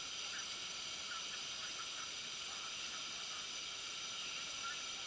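A steady, even hiss that does not change, with a few faint short chirps in the middle range.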